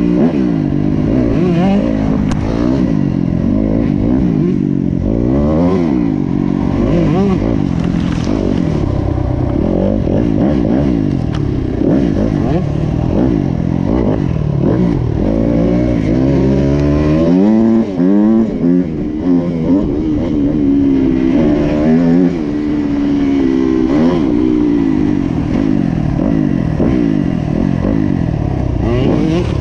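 Motocross bike engine revving up and down again and again as it is ridden, the pitch climbing and falling with the throttle and gear changes. A few short gaps a little past the middle where the throttle is chopped.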